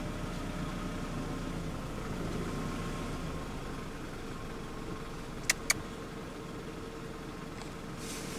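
Vehicle engine idling steadily. Two sharp clicks come about 0.2 s apart a little past the middle.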